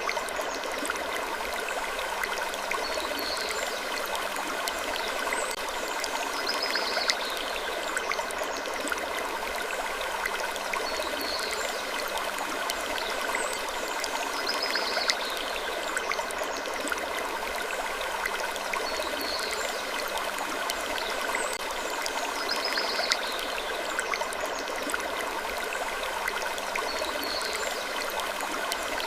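Steady sleep-ambience loop: an even rushing noise like running water, with short, faint high creaks that fall in pitch, coming back about every eight seconds.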